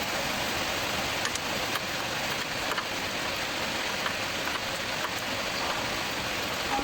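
Steady rain falling, an even hiss, with a few faint light clicks.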